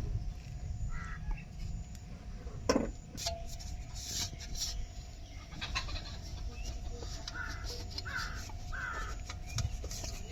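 Three short bird calls in quick succession near the end, over a steady low rumble, with one sharp knock early on being the loudest sound.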